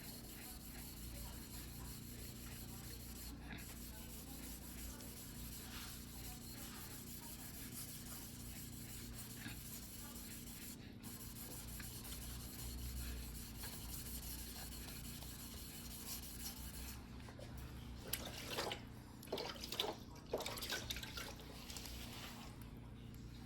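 A single-bevel sashimi knife blade being rubbed back and forth by hand on a wet whetstone, a soft scraping. A cluster of louder, sharper strokes comes near the end.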